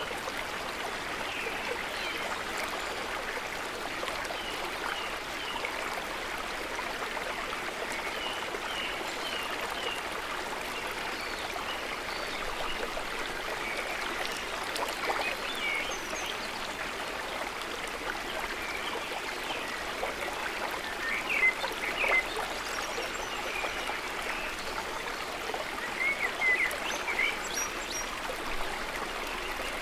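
River water running steadily, with short high chirps from small animals scattered over it, a few louder bursts of chirps in the second half.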